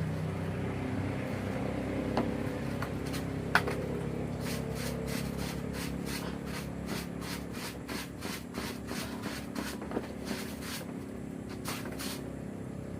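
Wet clothes being scrubbed by hand: rubbing strokes that settle into a steady rhythm of about three a second, over a steady low hum.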